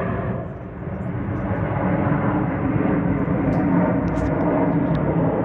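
Jet aircraft noise from display-team jets flying past, a steady rushing sound that grows louder over the first two seconds and then holds.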